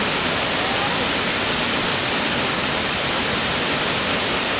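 Natural waterfall: water falling and splashing with a steady, even rush.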